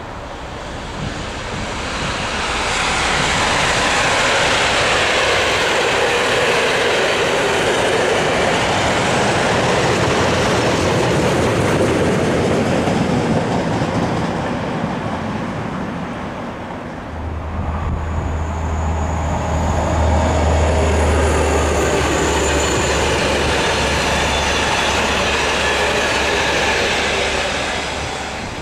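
A train passing close on the line: track and wheel noise swells, eases briefly about halfway through, then a diesel locomotive hauling coaches passes with a steady low engine hum and a faint high wheel squeal, fading near the end.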